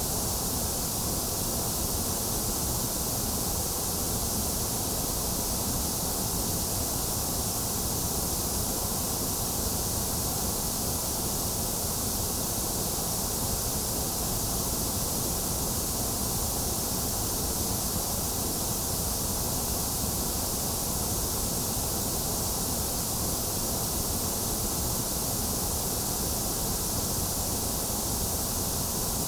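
Steady, unchanging electronic white noise: an even hiss with no events, strong in the highs and lows and thinner in the middle range.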